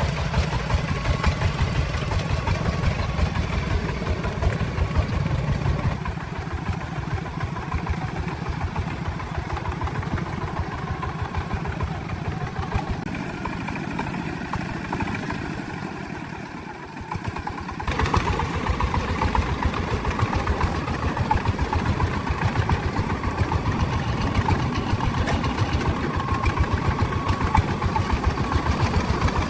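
Truck engine running steadily as it is driven over rough ground. It grows quieter toward the middle and comes back louder abruptly about eighteen seconds in.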